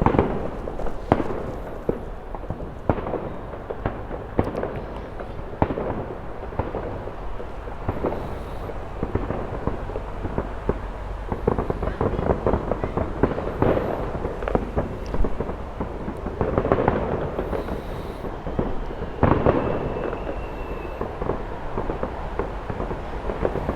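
Fireworks bursting in many scattered bangs and crackling pops, one after another, over a steady low rumble.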